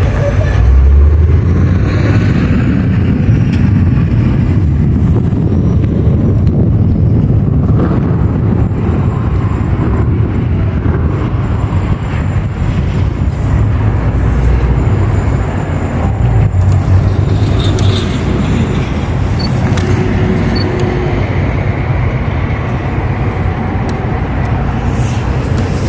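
A train running past with a steady, loud low rumble.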